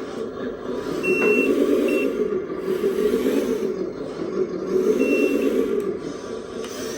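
Radio-controlled 8x8 hydraulic hook-lift truck model running, its electric motors and gearing whirring and swelling and easing off in turn, with three short electronic beeps like a reversing alarm: one about a second in, a brief one just after, and another about five seconds in.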